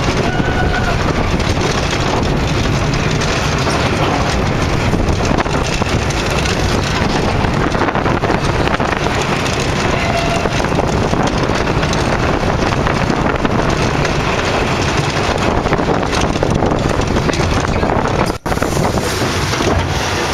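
Vekoma MK-900 M mine train roller coaster running along its track, heard from on board: a continuous rumble of the train with wind buffeting the microphone. The sound cuts out for an instant near the end.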